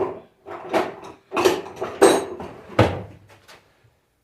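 A tool working at an alternator clamped in a vise: about six clacks and scrapes of metal parts in quick succession, as a cover and its retaining clips are pried off.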